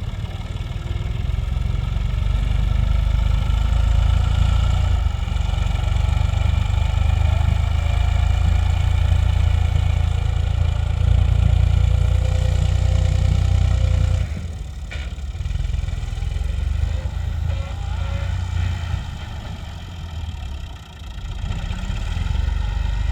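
Massey Ferguson tractor diesel engine running hard under load. It holds steady and strong for about fourteen seconds, then eases off suddenly, and picks up again near the end.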